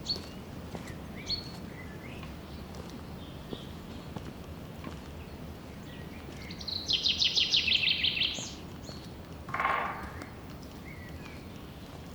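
A songbird sings a rapid trill of about a dozen high notes in under two seconds, about halfway through, over a steady low background hiss. A few faint high chirps come earlier, and a short lower call or sound follows about a second after the trill.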